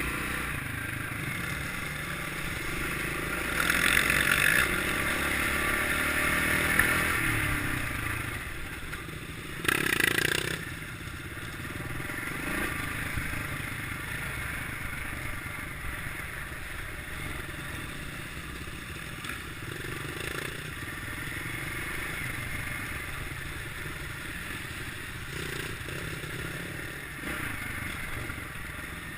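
Kawasaki KLX650R's single-cylinder four-stroke engine running under way on an off-road ride, with a louder stretch of throttle around four to seven seconds in and a short loud burst about ten seconds in, plus some scraping and clatter.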